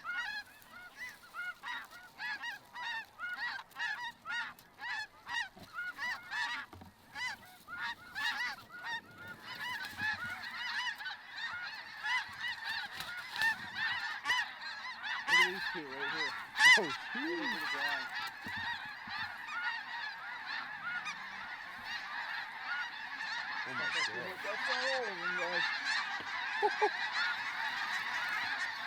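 Snow geese calling: single high honks repeated for the first several seconds, then from about ten seconds in a dense, unbroken chorus of many birds.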